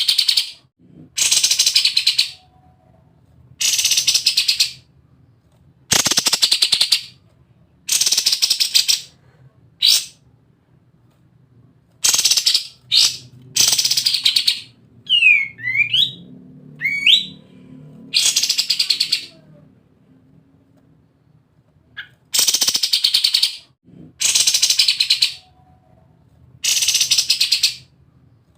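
Kapas tembak songbird singing 'ngebren': rapid rattling bursts about a second long, repeating every two seconds or so. A couple of quick sweeping whistled notes come about halfway through.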